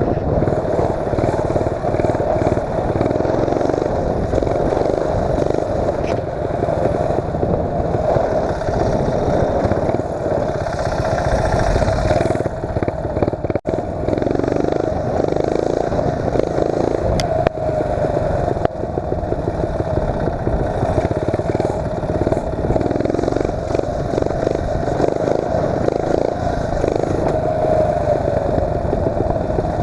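A mini bike's 8 hp Tecumseh single-cylinder engine runs under changing throttle while being ridden, its pitch rising and falling. The sound cuts out for an instant about halfway through.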